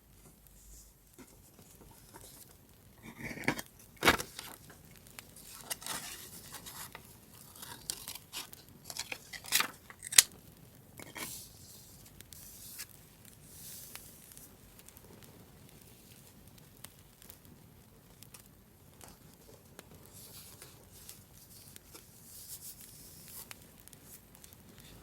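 Scrapbook paper being handled by hand: rustling, tearing and cutting, with a few sharp clicks about four and ten seconds in, the loudest near ten seconds.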